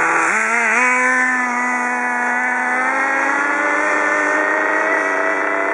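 Small nitro RC car engine running at high revs with a steady buzzing whine. Its pitch dips briefly just after the start, then creeps slowly upward.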